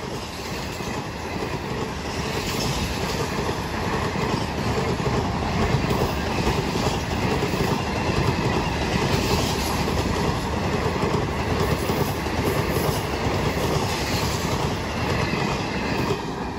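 Passenger train passing at speed. The noise builds over the first few seconds, holds steady, then starts falling away near the end as the train goes by.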